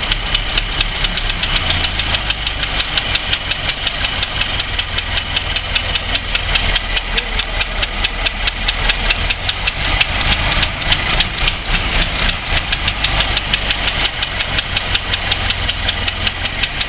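Ford Model T's four-cylinder side-valve engine running at a steady idle with an even, rapid beat, newly brought back to life after more than 30 years out of use.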